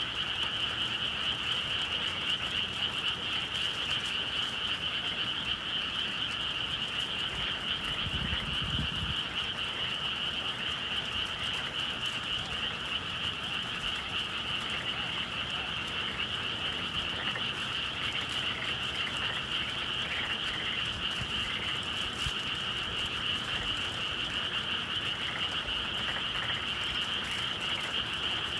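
Dense, steady chorus of many frogs calling together on a spring night, with a brief low rumble about eight seconds in.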